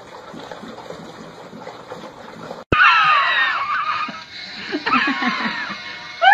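Faint background noise, then after an abrupt cut a person laughing loudly in high-pitched shrieks. A few short bursts of laughter come near the end.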